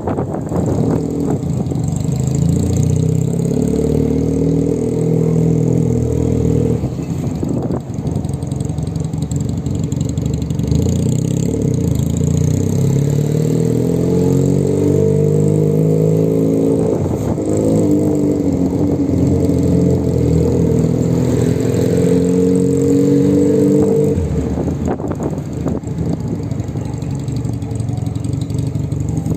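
A vehicle's motor running steadily, its pitch rising and falling slowly as the speed changes.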